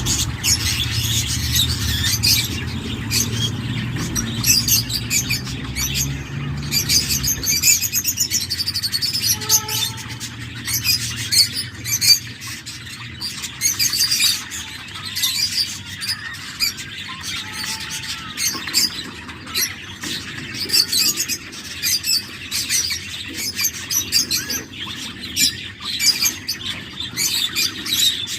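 Young cockatiel chicks in the nest calling: a dense run of short, high-pitched chirping calls in quick succession, with a low rumble under them for the first seven seconds or so.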